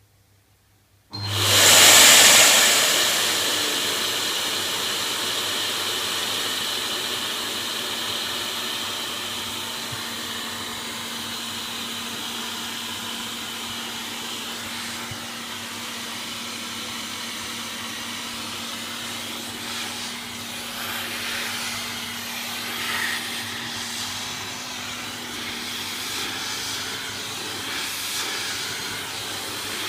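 Vacuum cleaner switched on about a second in, its motor coming up quickly to a loud, steady hissing run with a faint hum underneath.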